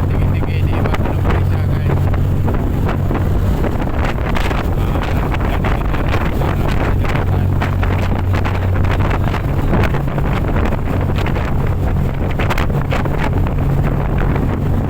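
A high-speed boat's engine running with a steady low drone, under heavy wind buffeting on the microphone.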